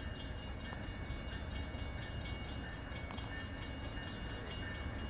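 Steady low rumble of an approaching Amtrak diesel locomotive, not yet close, with faint steady high tones above it.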